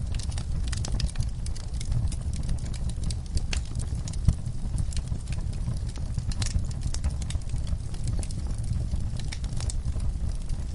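Wood fire crackling in a fireplace: irregular sharp pops and snaps over a steady low rumble of the burning fire, with one louder pop about four seconds in.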